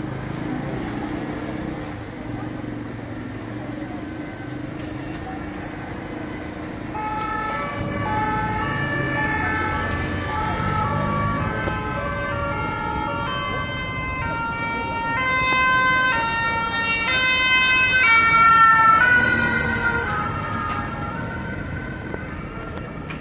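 Two-tone emergency vehicle siren alternating between two pitches over street noise. It comes in about a third of the way through, grows louder as it approaches, and fades near the end as it passes.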